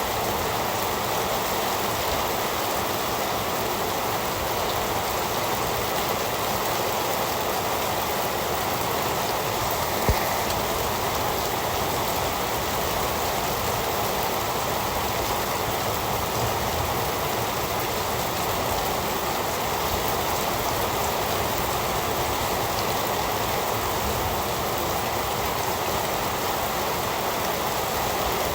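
Heavy rain falling steadily, an even unbroken hiss with no thunder. A single short sharp tick is heard about ten seconds in.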